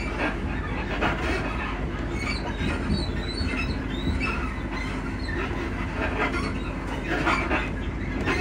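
Class 334 Juniper electric multiple unit heard from inside the carriage while running: a steady low rumble with occasional knocks, and short squeaks and creaks from the coach's suspension.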